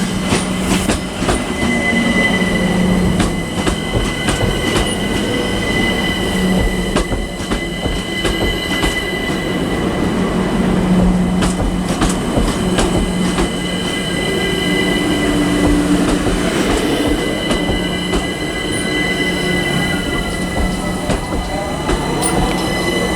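London Overground Class 378 Electrostar electric trains moving slowly through the station, with a steady high wheel squeal over a low electric hum and wheels clicking over rail joints. Near the end a falling whine comes in as a train slows.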